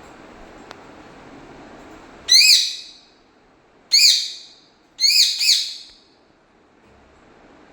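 Pet parrot calling: three loud, shrill bursts of quickly repeated notes, the last one doubled, starting a couple of seconds in.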